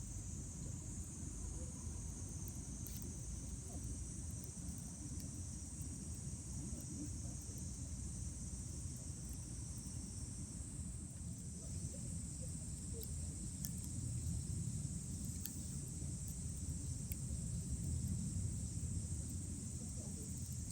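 Night insects chirping in a steady high-pitched drone over a campfire burning with a low rumble and a few faint crackles.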